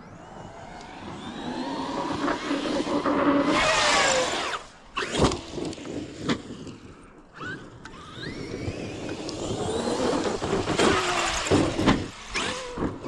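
Large electric RC monster truck (Traxxas XRT) driving on a track. Its motor whine rises in pitch as it accelerates, twice. A sharp knock comes about five seconds in and more knocks near the end, which fit jump landings.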